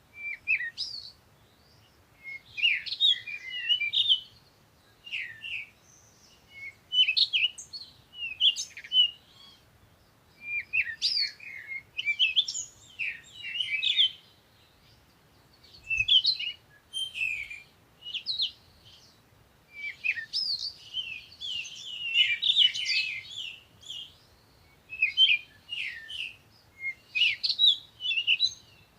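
Songbirds singing at dawn: quick, high twittering phrases follow one another with short pauses between them.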